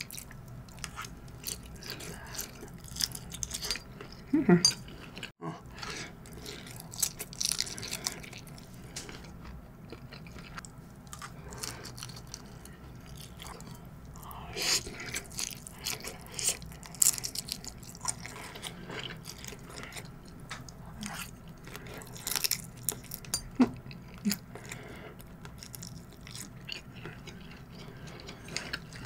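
Close-miked eating sounds: jumbo shrimp nigiri being bitten and chewed, with irregular wet smacks and clicks of the mouth.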